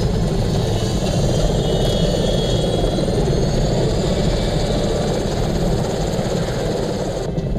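Helicopter running close by: a steady, dense rotor chop over a low engine rumble. The higher hiss cuts off suddenly near the end.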